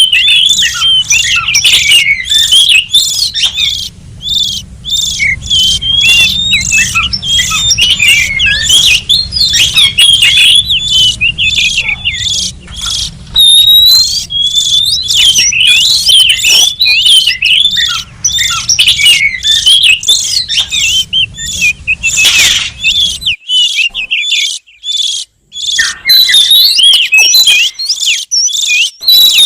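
Oriental magpie-robin (kacer) calls used as a bird-trapping lure: a loud, dense, rapid run of short whistled and chattering notes, many sliding up or down, with hardly a pause.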